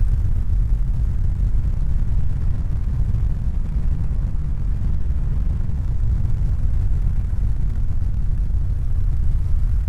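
A steady low rumble: an even noise with no distinct tones or rhythm.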